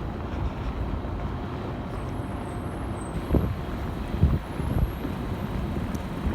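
Wind buffeting the microphone: a steady low rumble with a few stronger gusts about three and four seconds in.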